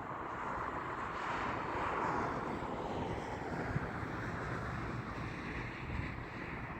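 Jet aircraft engines, a broad rushing noise that swells to its loudest about two seconds in and then slowly eases off as the plane passes, with wind buffeting the microphone.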